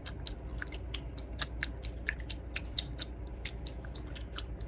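Chewing gum being chewed with the mouth open: a quick, steady run of wet smacks and clicks, about four or five a second.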